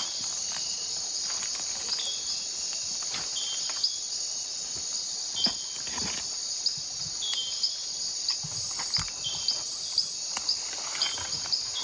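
Night-time jungle insect chorus: a steady high-pitched buzz, with repeated short chirps over it and scattered soft clicks and rustles.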